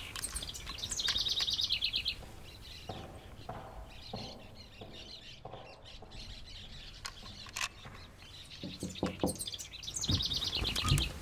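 Birds chirping, with a rapid, high trill of quickly repeated notes about a second in and again near the end, and shorter calls between.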